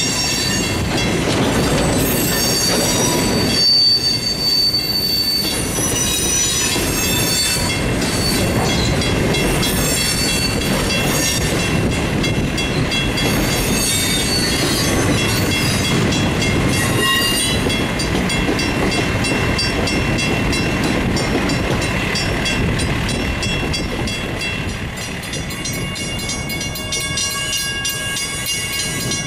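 Freight cars rolling past on the rails, their steel wheels squealing in several high, steady tones over a continuous low rumble. The rumble eases off near the end.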